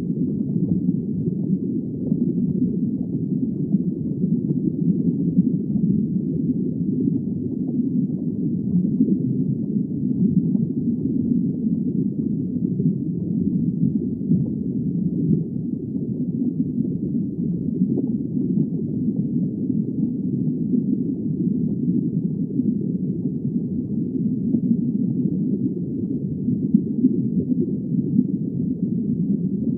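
Underwater ambience: a steady, muffled low rumble of moving water, with no high sounds and no separate events.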